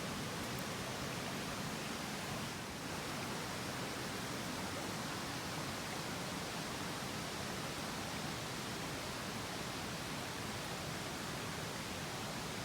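Mountain stream rushing over rocks, a steady, even hiss of running water.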